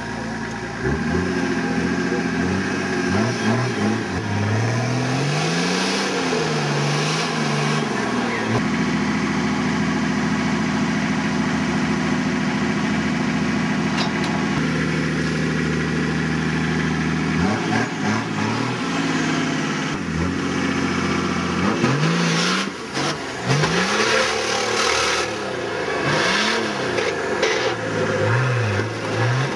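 Off-road 4x4's engine revving up and down again and again under load as it crawls its wheels over a concrete pipe obstacle, held at steady high revs for several seconds in the middle. A few short knocks sound about three quarters of the way through.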